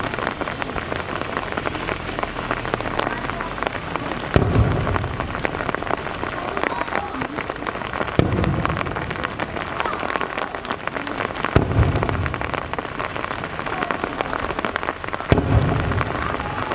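Steady rain, with the deep boom of a firework shell bursting about every four seconds, four times.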